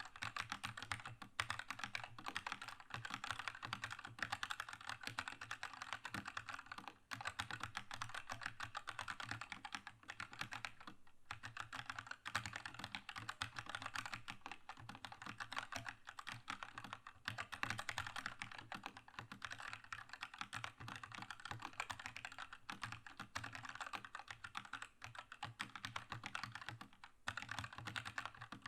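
Steady, fast typing on a Keychron K2 mechanical keyboard, aluminium-frame version with red linear switches: a dense run of keystrokes that pauses briefly about seven seconds in and again at about eleven seconds.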